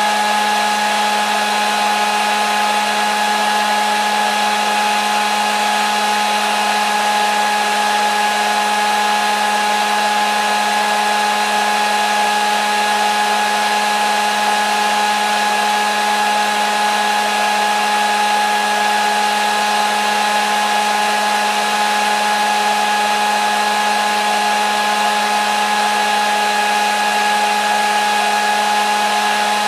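Hair dryer running steadily: an even blowing hiss with a constant motor whine, no change in speed.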